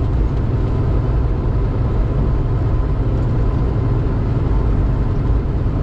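Semi truck's engine and tyre noise heard from inside the cab at highway speed: a steady low drone with no change.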